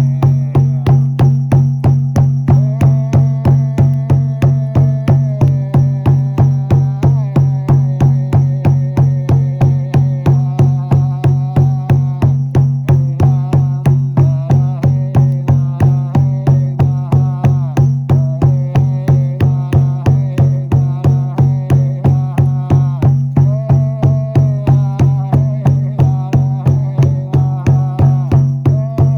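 Ritual frame drum (buben) beaten in an even, unbroken rhythm of about three strokes a second, over a steady low drone with a wavering melodic line above it.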